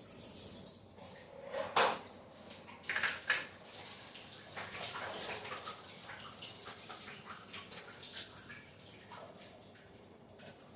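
Water running with scattered metallic clinks and knocks; the loudest knocks come about two and three seconds in, followed by lighter clicking.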